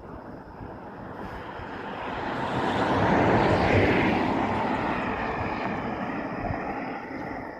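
A passing vehicle: its rushing noise swells to a peak about halfway through, then fades away.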